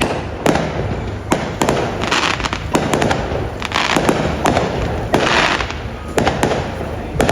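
Fireworks display going off: a rapid run of sharp bangs, several to the second, with bursts of crackling every second or two.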